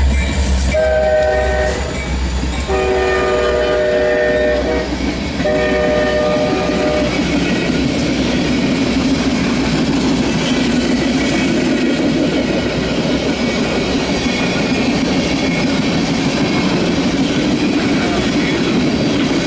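Diesel freight locomotive horn blowing a chord in three blasts in the first seven seconds, the middle one longest, over a fading diesel rumble. After that comes the steady rolling rumble and clickety-clack of a passing train of empty tank cars.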